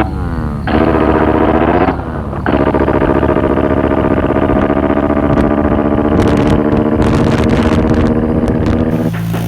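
Motorcycle engine running hard. Its pitch falls about half a second in, it dips briefly around two seconds in as with a gear change, then it holds a steady high note until it stops shortly before the end.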